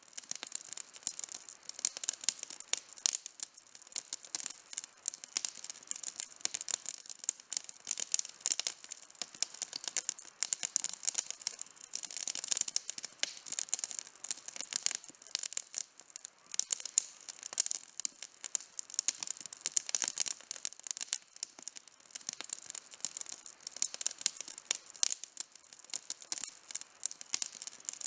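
Campfire crackling: a dense, continuous run of sharp, mostly high-pitched pops and snaps, with no low rumble beneath.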